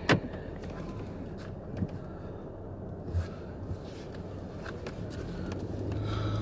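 Car cabin noise while driving: a steady low hum that grows a little louder toward the end, with a sharp click just after the start and a few soft knocks.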